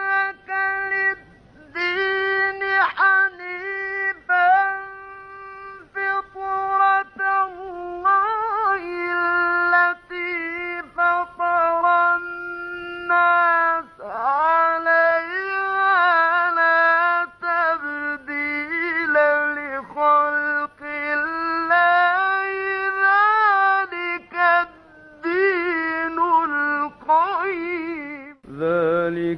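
Melodic Quran recitation (tajweed): a single high voice holding long notes with ornamented pitch turns, phrases separated by short breaths. Near the end, a deeper male voice takes up the recitation.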